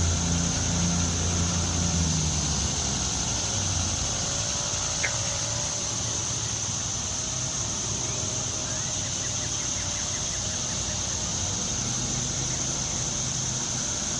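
Outdoor ambience with a steady high-pitched drone throughout and a low engine-like hum that fades out in the first few seconds. A single short chirp comes about five seconds in.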